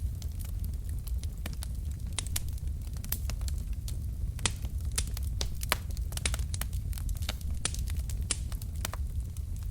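Wood fire burning in a fireplace: burning logs give off irregular sharp crackles and pops, several a second, over a steady low rumble. The loudest pops come about four and a half seconds and just under six seconds in.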